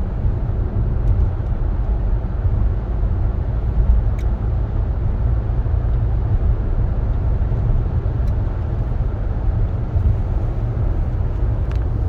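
Steady low rumble of road and tyre noise inside the cabin of a SsangYong Torres SUV on the move, with a few faint ticks scattered through it.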